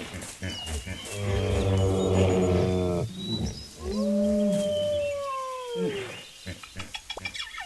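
Calls of a large animal: a long, low drawn-out call, then a higher held call that rises at its start and drops away at its end.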